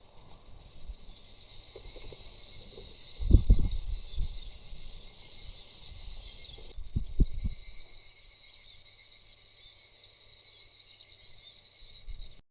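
Steady high-pitched chirring of insects outdoors, with low rumbles on the microphone about three and seven seconds in.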